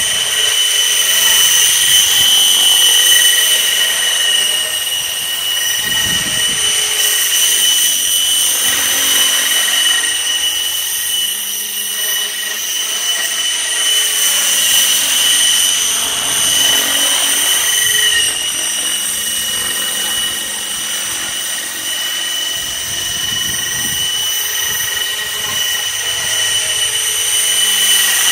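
Outrage Fusion 50 RC helicopter flying, its rotor head and drive giving a steady high whine made of several held tones. Two brief low rumbles of wind hit the microphone, about six seconds in and again near the end.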